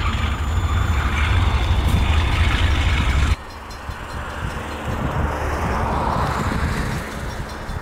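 Short freight train of a GE B23-7 diesel locomotive and a single covered hopper passing close by with a loud low rumble. About three seconds in it cuts off abruptly to a quieter, more distant train sound.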